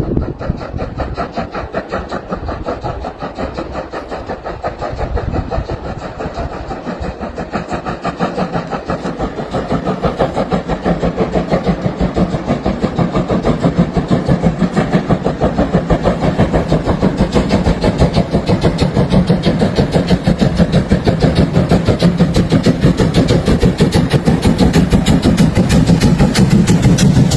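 Steam locomotive working, its exhaust beats coming in a rapid, even rhythm and growing steadily louder as it draws nearer.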